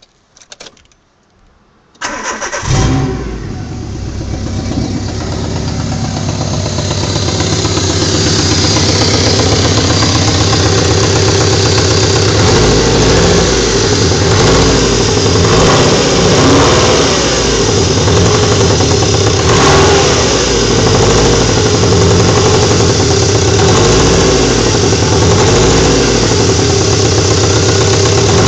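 A four-cylinder car engine starts about two seconds in, flares briefly, then settles into a steady idle with a slight, irregular waver. The owner suspects the unevenness is a misfire.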